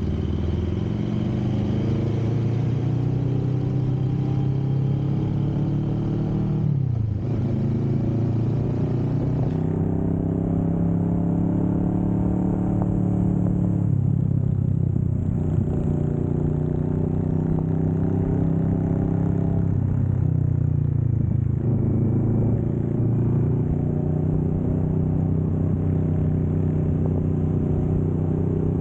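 Kawasaki Vulcan S 650's parallel-twin engine under way, its pitch climbing and then dropping sharply at three upshifts about seven seconds apart, then holding a fairly steady pitch at cruising speed.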